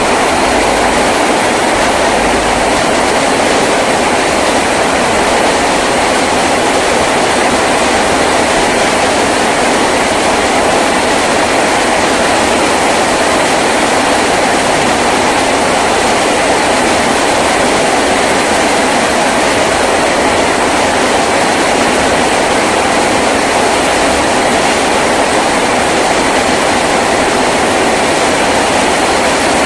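Heavy rain falling on a tin roof, a loud, steady hiss.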